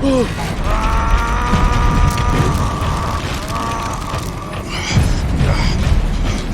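Action-film sound mix: a heavy low rumble with clanking mechanical noise and booms. A long high tone is held over it for a few seconds, starting about a second in.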